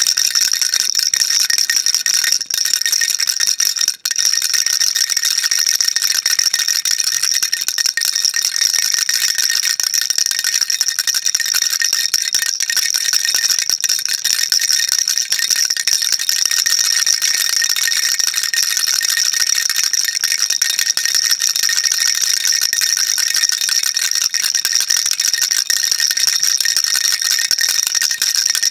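Baby rattle shaken without pause, a dense, steady, high-pitched rattle, with one brief break about four seconds in.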